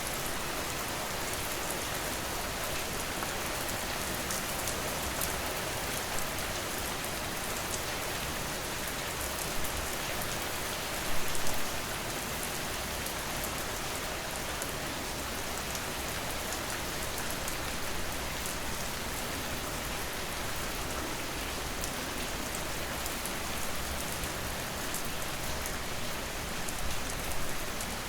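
Steady rain falling: a dense, even hiss with individual drops striking a surface. A brief louder cluster of drop impacts comes about eleven seconds in, and smaller ones near the end.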